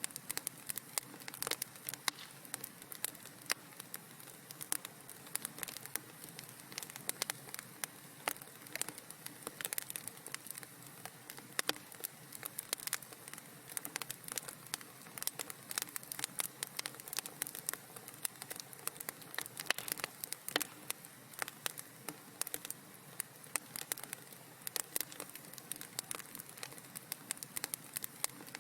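Wood fire crackling in a fireplace: many small irregular pops and snaps over a soft steady hiss.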